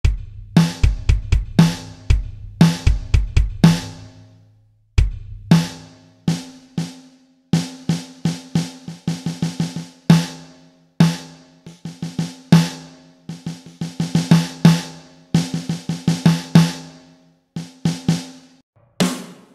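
Drum kit played in fast patterns: bass drum, snare and pitched drum strokes with cymbals. It breaks off briefly about four and a half seconds in, then starts again.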